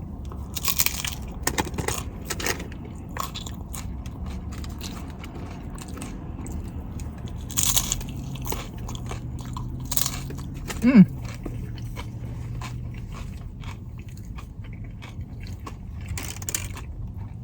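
Close-up eating sounds: crisp bites and crunching of hard-shell chicken tacos, with chewing between the bites. About eleven seconds in, a short falling vocal sound is heard.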